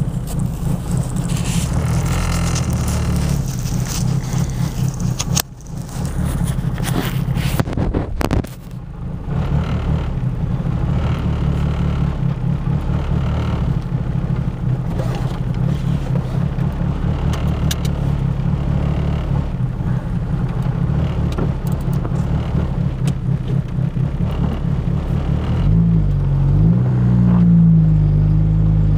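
Turbocharged Ford Focus engine running unevenly, with its pitch rising for the last few seconds. The uneven running is the misfire that a new coil pack has not cured, which the owner puts down to the plug wires or the cylinder 2 fuel injector.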